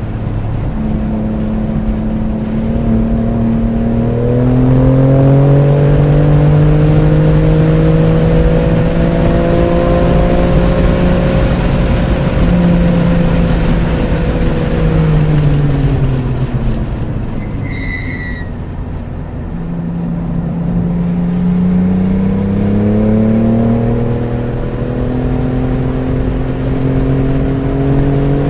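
BMW F80 M3 Competition's twin-turbo inline-six under hard acceleration at a track day, rising in pitch through the gears. About two-thirds through it lets off and the pitch falls, with a brief high squeal, then it accelerates again and the pitch climbs.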